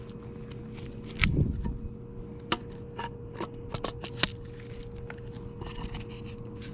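Fishing gear being handled: scattered sharp clicks and scrapes, with a dull thump a little over a second in, over a steady low hum.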